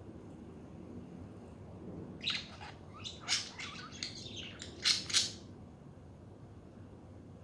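Pet budgerigars chirping: a quick run of short, high calls lasting about three seconds, starting about two seconds in, with the two loudest chirps near the end of the run.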